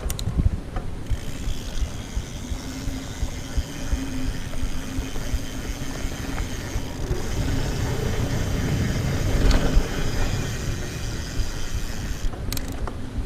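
Mountain bike riding a trail, tyres rumbling and knocking over the ground. A steady freehub buzz of ratcheting pawls starts about a second in and cuts off sharply about a second before the end, the sign of the rider coasting and then pedalling again. Wind rushes on the microphone.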